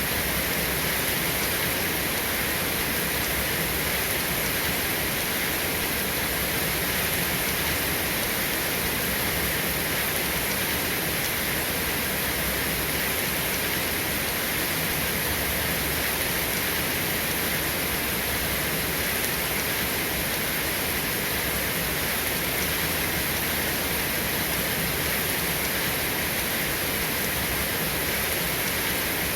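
Steady rain falling, an even, unbroken hiss with no thunder claps or other sudden sounds.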